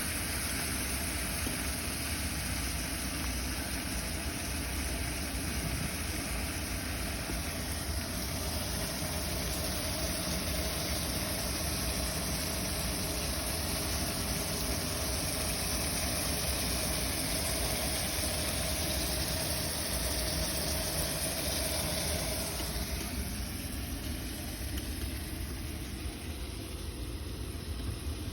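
Boat engine running steadily at a low, even pace.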